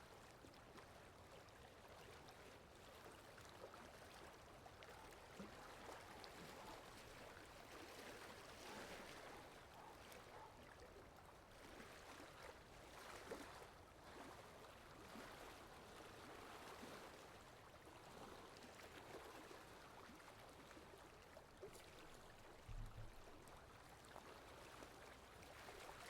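Faint rain ambience: a soft, even hiss of falling rain with light irregular patter. A brief low thump sounds once near the end.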